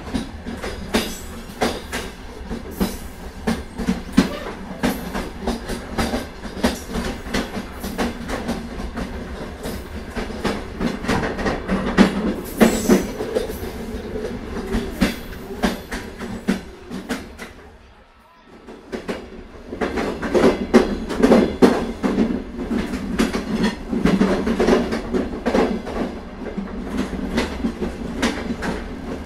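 Train running, with quick, irregular clicking of wheels over rail joints over a low steady hum; it drops away briefly a little past the middle and then resumes.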